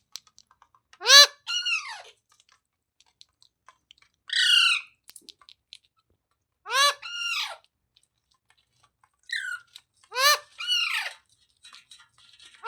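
Indian ringneck parrot (rose-ringed parakeet) calling: short, harsh squawks, mostly in quick pairs, each falling in pitch, repeated about every three seconds.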